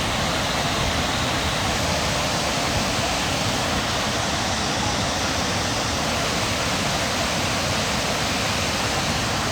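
Rushing water, a steady, loud, even rush of noise with no breaks.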